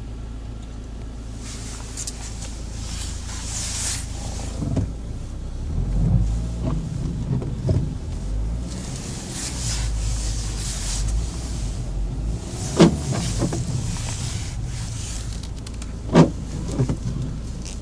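BMW 520d's four-cylinder turbodiesel car driving, with a steady low rumble and a wavering engine drone under surges of road and wind hiss. Two sharp knocks come late on.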